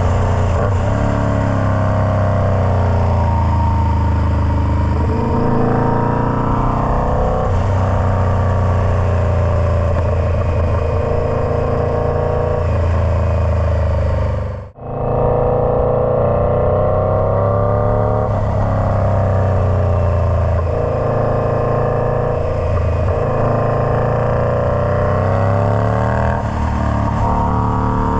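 Indian Scout Bobber's V-twin engine running loud through a Freedom Performance Combat 2-into-1 exhaust. Its pitch climbs and falls again and again as it revs up and eases off, and the sound cuts out for a moment about halfway through.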